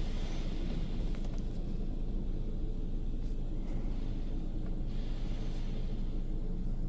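Mark VII ChoiceWash XT in-bay automatic car wash applying pre-soak foam, heard from inside the car: a steady low rumble and hum, with a spray hiss that thins out after the first second or so.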